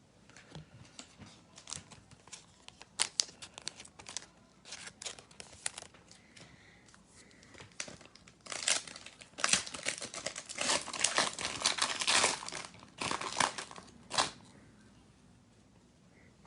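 Trading card pack wrapper being torn open and crinkled, with cards handled. There are scattered light clicks and rustles at first, then about eight seconds in a stretch of loud crinkling and tearing that lasts about six seconds.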